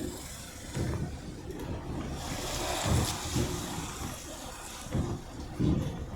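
Car driving over a snowy road, heard from inside: a low rumble with irregular bumps, and a rush of hiss that swells from about two seconds in and fades by five.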